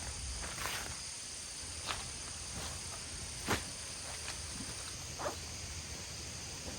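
A few separate sharp snaps, the loudest about halfway through, over a steady outdoor background.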